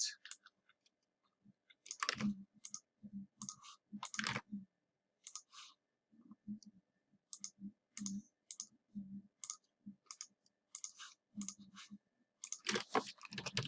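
Quiet, irregular clicking of a computer's mouse and keys, roughly two clicks a second with short pauses.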